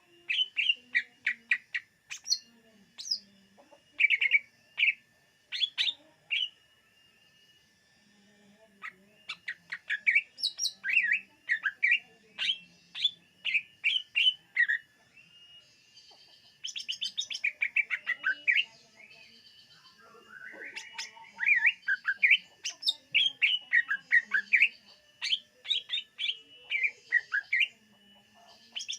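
Cucak ijo (green leafbird) singing: runs of quick, varied chirps and whistles with short rattling trills, in phrases broken by pauses of a second or two.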